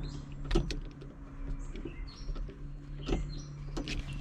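A few sharp clicks and knocks as the new shift rod coupler in the Beetle's tunnel is twisted and checked by hand, with birds chirping in the background over a steady low hum.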